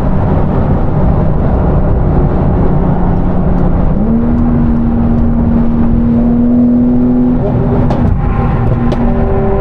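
Car engine and road noise heard from inside a moving car: a steady drone whose engine note steps up in pitch about four seconds in and holds, with a few faint sharp ticks near the end.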